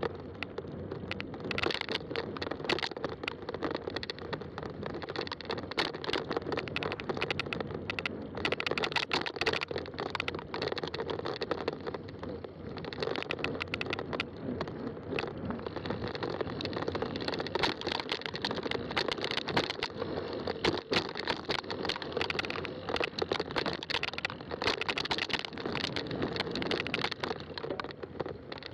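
Fat-tire mountain bike rolling along a trail: steady tire noise with frequent crackling and clicking as the tires pass over the rough ground, and rattles from the bike.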